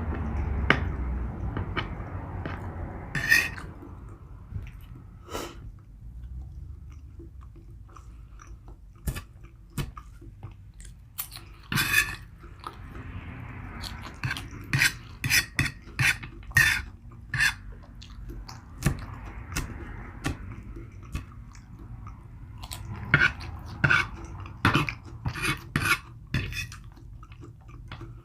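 Close-miked chewing and mouth clicks of a person eating a meatball sub meal, with irregular runs of sharp smacks, thickest in the second half.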